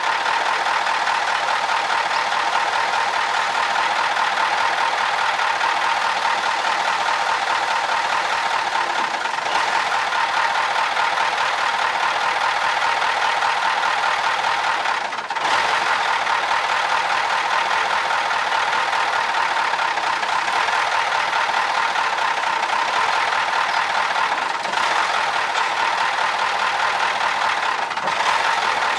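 Cummins 903 V8 diesel engine of a Ford LNT 9000 Louisville truck running steadily, with a brief dip in level about halfway through.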